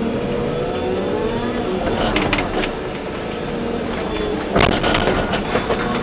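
Volvo EC240B excavator working: the diesel engine and hydraulics hum steadily under load, with a tone that glides upward in the first two seconds. Clattering knocks come about two seconds in and again around five seconds in.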